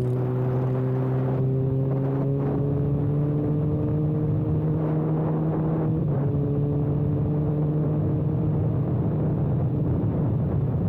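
Kawasaki ZX-6R inline-four sport bike running with its exhaust can removed, loud and steady on the move. The engine note climbs slowly, with a small dip in pitch about six seconds in.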